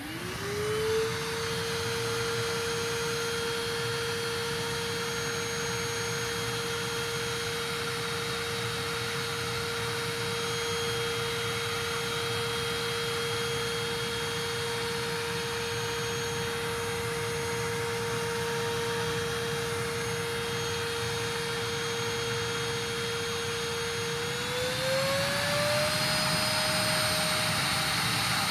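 GeeMo K14 cordless stick vacuum switching on: its motor whine rises quickly to a steady pitch over a rush of airflow. About 24 seconds in, the motor speeds up and the whine glides to a higher steady pitch.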